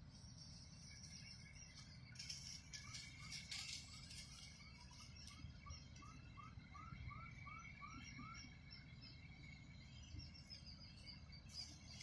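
A small bird calls a quick series of short rising notes, about three a second, for several seconds, faint over a steady low rumble, with some brief rustling a couple of seconds in.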